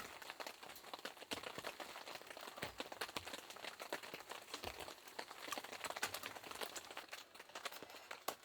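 Rain falling: many small, irregular drop taps that come thick and fast.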